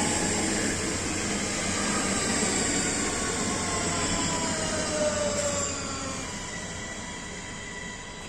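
Siemens Desiro electric multiple unit slowing to a stop: its traction motors whine in several tones that fall steadily in pitch as the train brakes. About six seconds in the whine fades out, leaving a quieter steady electrical hum.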